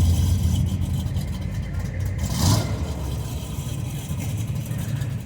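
A car engine running with a steady low rumble, swelling briefly louder about two and a half seconds in.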